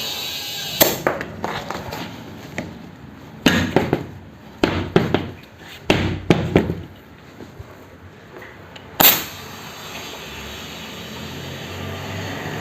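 Several sharp knocks and clicks of hand work on a tubeless motorcycle tyre and wheel rim. About nine seconds in a sudden burst is followed by a steady hiss that slowly grows louder: compressed air starting to fill the tyre.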